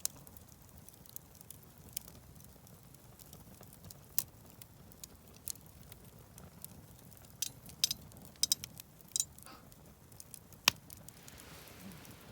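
Wood campfire crackling, with sharp, irregular pops and snaps over a low background.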